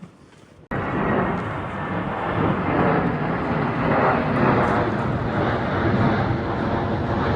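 Strong wind buffeting the microphone, a loud rushing rumble that cuts in abruptly about a second in and gusts unevenly.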